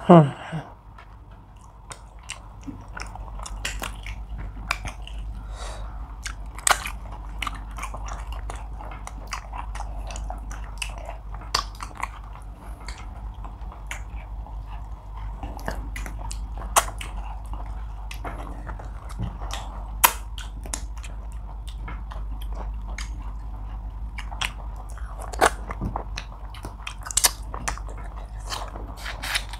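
Close-miked chewing and mouth smacking of two people eating tilapia fish with okra soup and pounded yam by hand, with many sharp wet clicks and occasional crunches of fish bone. A brief loud falling sound right at the start.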